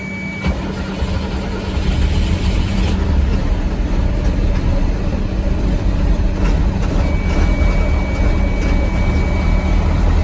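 A school bus diesel engine, which the owner thinks is a Caterpillar 3116, started cold. A steady high dashboard buzzer cuts off with a click about half a second in, the engine cranks and catches within about three seconds, then runs at a steady low idle. A high buzzer tone sounds again from about seven seconds in.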